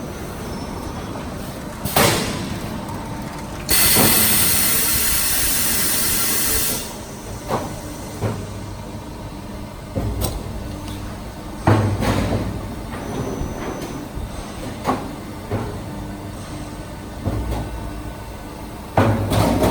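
Automatic sheet-metal duct production line running: a steady low machine hum with sharp metal clanks and thumps every one to three seconds from its punching, notching and shearing stations. About four seconds in comes a loud hiss lasting about three seconds.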